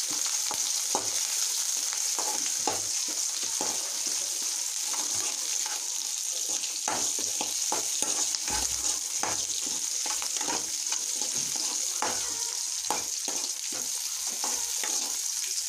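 Chopped onions frying in hot oil in a pan, sizzling steadily, while a spatula stirs them with frequent irregular scrapes and knocks against the pan.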